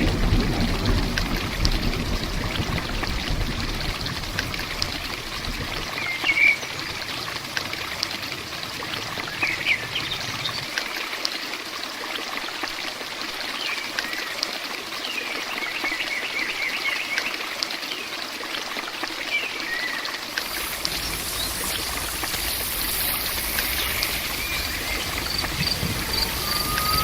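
Steady rain with running, trickling water, and several short bird chirps scattered through the middle.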